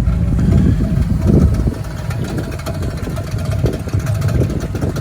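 A tow truck's engine is running with an irregular rattling and knocking from under the hood. It is louder for the first second and a half or so, then settles. The noise comes from a loose idler pulley that is working off and striking the back of the engine fan.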